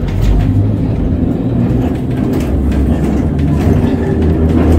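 Vintage electric tram running along its rails: a steady low rumble with occasional light knocks.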